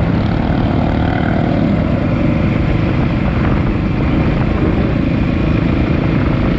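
Dirt bike engine running steadily under way, loud and without a break.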